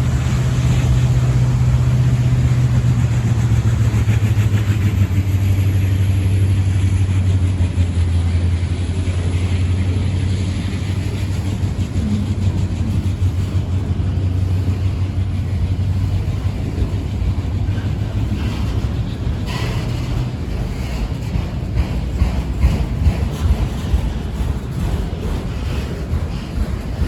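Diesel locomotive engine running with a steady low drone, dropping slightly in pitch a few seconds in and fading out about two-thirds of the way through, leaving rumble and wind noise.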